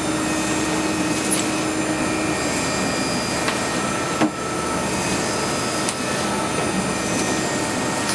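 CNC milling machine cutting a solid aluminum block: steady cutting and spindle noise with several thin, steady whining tones, and one sharp click about four seconds in.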